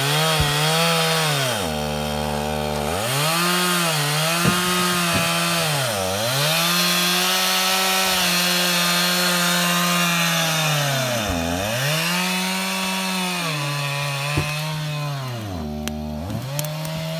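Two-stroke chainsaw running mostly at full throttle. It drops back to idle about two seconds in and again near the end, and the revs dip briefly twice in between.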